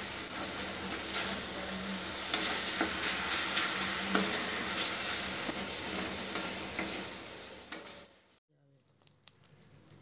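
Red masala paste sizzling in hot oil in a wok while a metal spatula stirs and scrapes it, with many small clicks of the spatula on the pan. The sizzling cuts off suddenly about eight seconds in, leaving only faint ticks.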